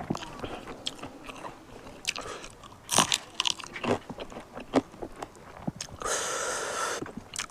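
Close-mouthed eating of a smoked pork dish: irregular bites, crunches and wet chewing clicks. Near the end comes a steady hissing sound lasting just over a second.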